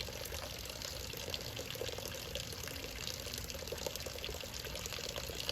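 Steady rain falling, with many small drops striking close by.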